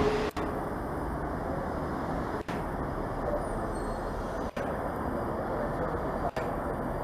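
Steady rumble of a train running at a railway station, with no clear engine note. The sound drops out very briefly four times, about every two seconds.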